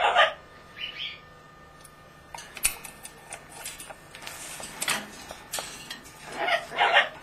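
A pet bird squawking, two loud harsh calls at the start and near the end with a shorter one about a second in, and scattered clicks and scratchy taps of handling between them.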